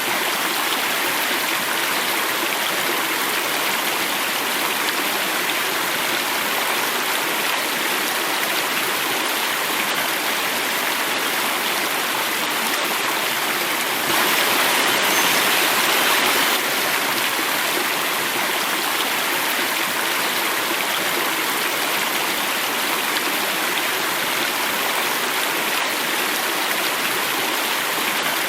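Water running and falling in a cascade, a steady rushing noise. For a couple of seconds about halfway through it is a little louder and brighter.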